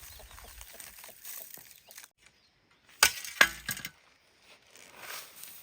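Two sharp, loud knocks of hard objects striking, about half a second apart, each with a brief ring, over faint rustling and light clicking.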